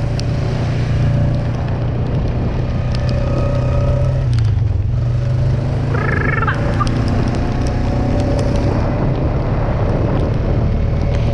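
Vehicle engine running steadily while driving through deep mud. About six seconds in comes one short, high, rising-and-falling call.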